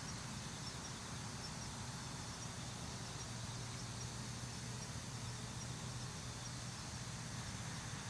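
Outdoor ambience: faint, evenly repeated high chirps from an insect over a steady low hum and hiss.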